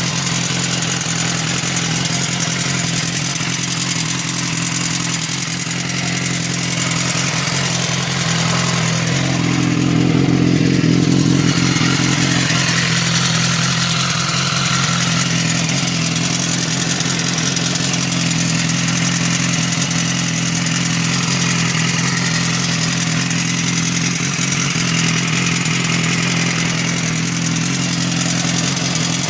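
BMW S1000RR inline-four engine running steadily at idle with an abnormal noise that the owner calls strange and ties to the butterfly valve. It swells briefly around ten seconds in, then settles back to a steady idle.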